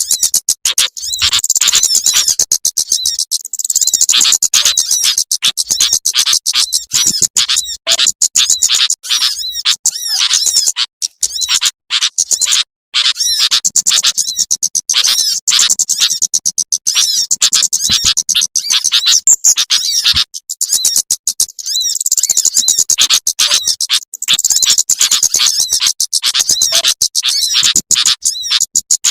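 A loud recording of small birds' rapid, high-pitched chirping and twittering, played as a mixed bird-hunting lure call (pikatan) to draw in small birds. The chirping runs almost without pause, broken only by a few short gaps.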